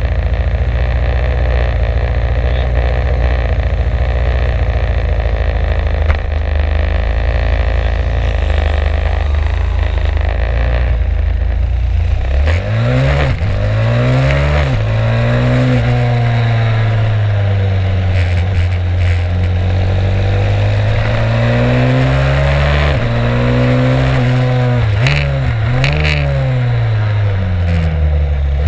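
Stomp 140 pit bike's small single-cylinder four-stroke engine heard from on board while riding. It holds a steady pitch for about the first ten seconds, then revs up and falls back again and again through the rest.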